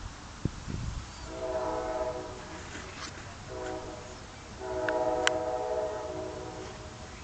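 A horn sounds three times: long, short, then long. Each blast holds several steady tones together.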